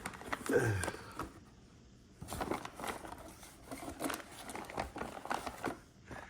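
Paper vacuum bag crinkling and rustling in irregular bursts as it is handled and pushed into a canister vacuum's bag compartment, with a short pause about a second in.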